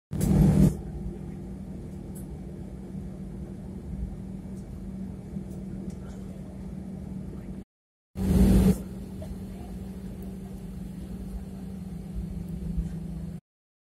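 Steady hum of an airliner's engines heard inside the cabin, with an even drone that holds its pitch. The sound cuts out abruptly about two-thirds of the way through and again near the end, and each time it resumes it opens with a short loud burst.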